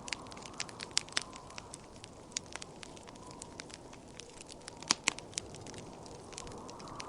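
Wood fire crackling, with irregular sharp pops, the loudest about a second in and around five seconds in, over a steady wind-like rush that grows near the end.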